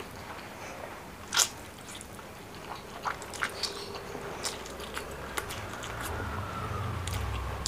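Close-up eating sounds of a mouthful of noodles being chewed: sharp wet mouth clicks and smacks, the loudest about a second and a half in, then a scatter of smaller clicks. A low rumble swells underneath in the last couple of seconds.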